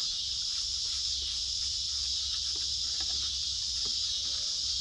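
Steady high-pitched chorus of insects, with a few faint knocks scattered through it.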